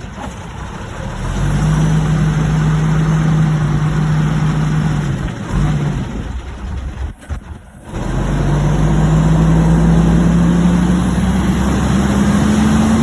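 Heavily loaded truck's engine pulling under load at a steady pitch. It falls away briefly for about a second past the middle, then comes back in and climbs steadily in pitch as it pulls again.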